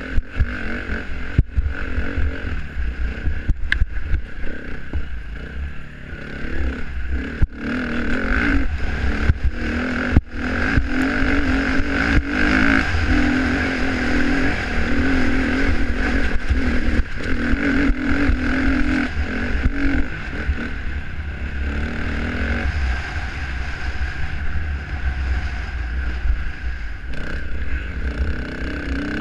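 Dirt bike engine running while being ridden, the revs rising and falling, with scattered sharp knocks and clatter from the bike over rough ground.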